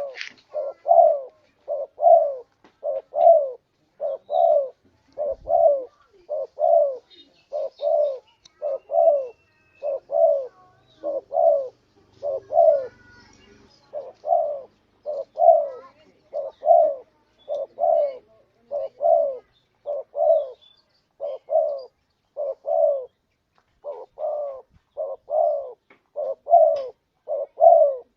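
Spotted dove cooing: a long, even series of low, slightly falling coos, about two a second, with a couple of brief pauses.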